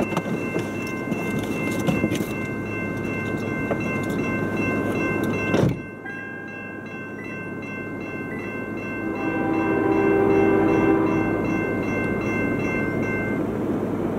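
CSX freight train led by diesel locomotives approaching, with a steady engine rumble and steady high-pitched tones. A sharp jolt comes about six seconds in, and a train horn chord sounds for about two seconds about nine seconds in.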